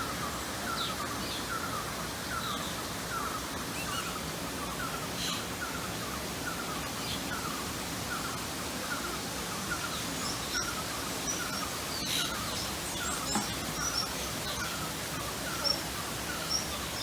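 Birds chirping over a steady outdoor hiss, one of them repeating a short falling chirp about twice a second, with other higher chirps scattered among them.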